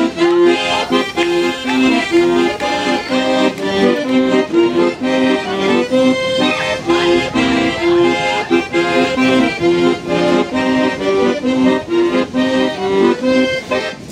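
Accordion playing a traditional-style tune over a steady, repeating accompaniment of low notes.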